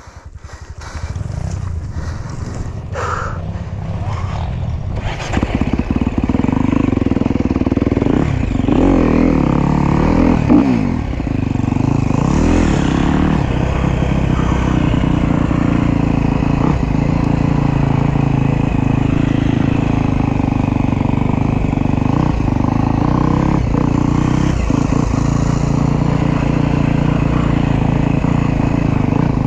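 Enduro motorcycle engine, quiet at first, picking up over the first seconds and then running steadily under load from about six seconds in. A couple of clattering knocks come around three and five seconds.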